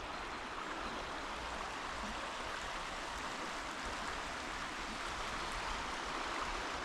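Steady rush of river water and a waterfall, an even hiss of flowing water.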